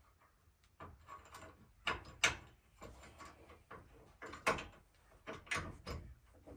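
Irregular metallic clinks and knocks of hand tools and steering parts being handled during tie rod work, with two louder knocks about two and four and a half seconds in.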